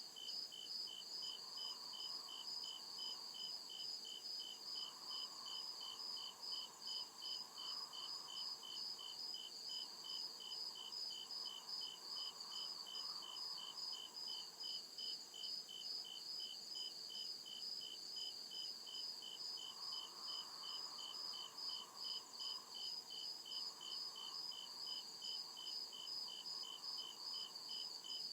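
Crickets chirping in a steady, even rhythm, about two or three high chirps a second, unbroken throughout. A fainter, lower hiss swells and fades several times beneath them.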